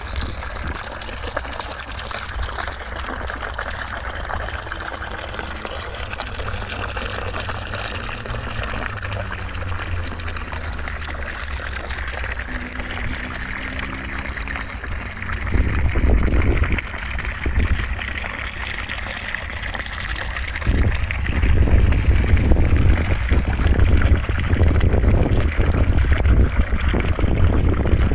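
Steady rushing noise like running water, used as white noise. From about halfway through, a heavier low rumble swells in and grows louder toward the end.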